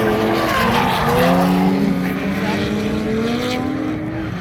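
Drift car engines revving hard, the pitch climbing about a second in and then easing slowly down as the cars slide past.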